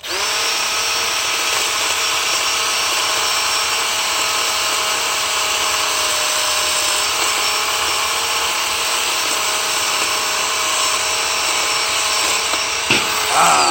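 Battery-powered electric chainsaw switched on and running at a steady speed with a high whine, with a single knock near the end.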